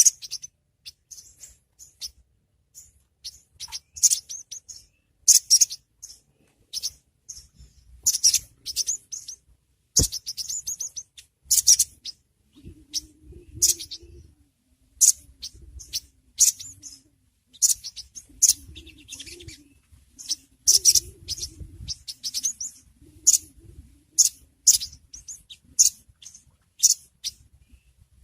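A sogon (ruby-cheeked sunbird) gives rapid, high, thin chirps and twitters in irregular bursts. A faint low hum runs underneath for several seconds midway, and there is one sharp click about ten seconds in.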